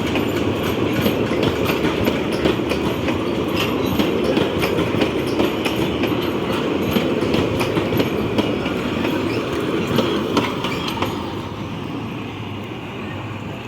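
TU2 narrow-gauge diesel locomotive and its cars passing close by: wheels clicking over rail joints over a steady rumble. The clicking stops about eleven seconds in and the sound fades as the train moves away.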